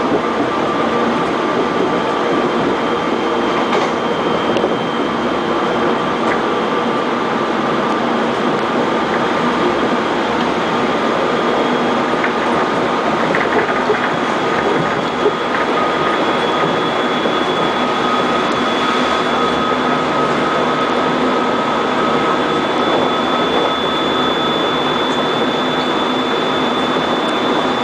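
Running noise inside a Korail 311000-series electric train at speed: a steady rumble of wheels on rail with a thin whine that slowly rises in pitch. A few clicks come in the middle, with a knock about fifteen seconds in.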